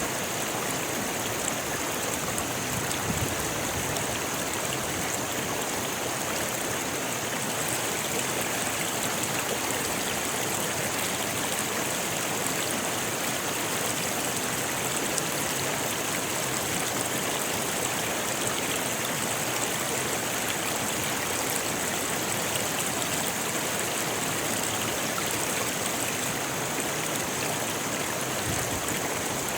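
Rocky river flowing steadily, water rushing and splashing over stones.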